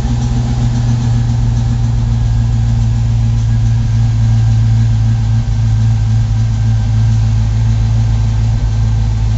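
LS-swapped V8 idling steadily just after start-up, heard from inside the car's cabin.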